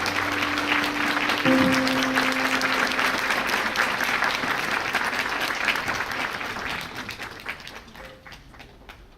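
Audience applause, dense clapping that gradually dies away over the last few seconds, with the wind band's held closing notes sounding under it for the first three seconds or so.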